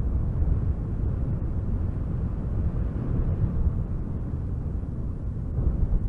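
Strong wind gusting through spruce trees: a continuous, rough rush of noise, heaviest in the deep low end, swelling and easing slightly with the gusts.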